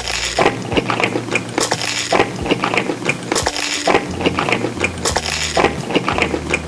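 Close-miked eating: crunchy biting and chewing with many small clicks and crackles, and a louder crisp crunch about every second and a half.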